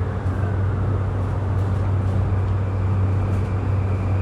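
Interior sound of a JR East E235-1000 series electric multiple unit on the Yokosuka Line: a steady low hum with an even rumble, and a faint rising tone just after the start.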